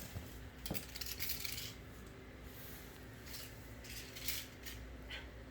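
Scattered light clicks and rattles from a small toy ball being batted and rolling about on a hard floor.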